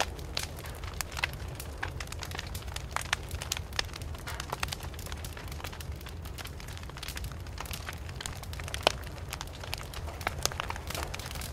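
Wood fire crackling, with frequent sharp snaps and pops over a low steady rumble; one pop about nine seconds in is louder than the rest.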